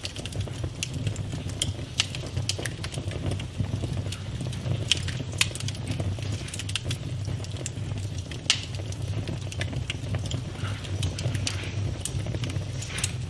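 Campfire burning with a steady low rumble of flame and irregular crackles and sharp pops of burning wood.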